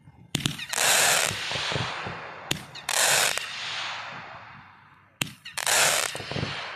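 Fireworks going off three times, about two and a half seconds apart. Each time a sharp bang is followed a moment later by a loud, noisy burst about half a second long, which then fades away slowly.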